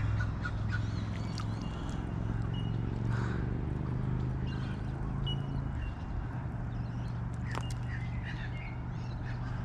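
Outdoor ambience: a steady low hum that eases off about six seconds in, with a few faint, short high bird chirps.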